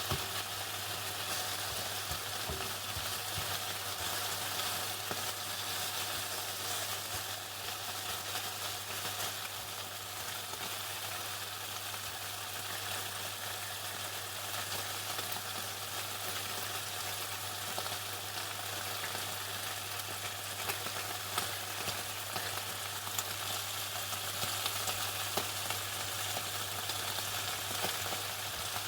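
Chicken frying in hot oil: a dense, steady crackle and sizzle over a low steady hum, with a few sharper pops in the later part.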